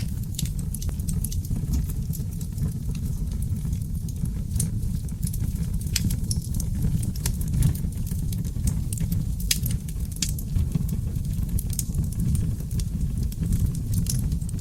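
Wood fire burning in a fireplace: a steady low rumble of flames with frequent, irregular sharp crackles and pops from burning seasoned oak logs.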